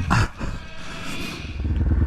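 A sudden loud noise right at the start, then from about one and a half seconds in a motorcycle engine running with a rapid, even low pulse.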